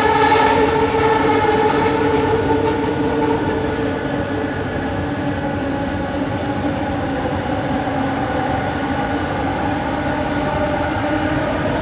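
Bombardier Innovia ART 200 metro train running, its linear induction motors giving a steady whine of several tones over the running rumble. The whine is loudest in the first few seconds, then eases a little.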